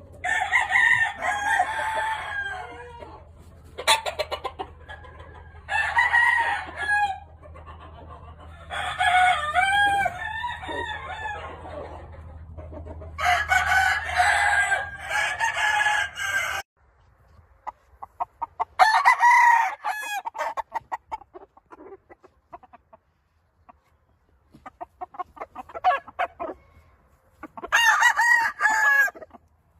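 Roosters crowing again and again, one call after another, with some clucking between. A low steady hum underneath cuts off suddenly about halfway through.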